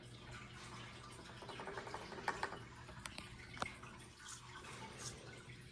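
Baking soda being spooned into a plaster model volcano: a faint, soft pouring hiss with a few light clicks of the scoop.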